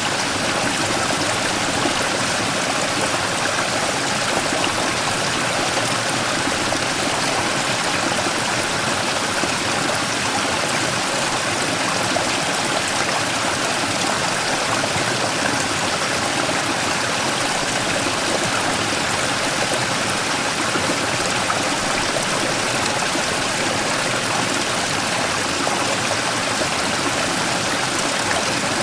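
Mountain stream flowing over a large rock, a steady, unbroken rush of water with splashing and gurgling.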